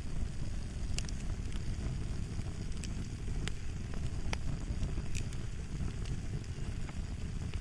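Fire crackling: a steady low rumble of burning with sharp pops and snaps scattered irregularly through it, several in a few seconds.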